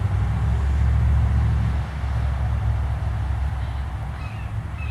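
A steady low mechanical rumble, like an engine running nearby, louder in the first two seconds. Two faint short chirps come near the end.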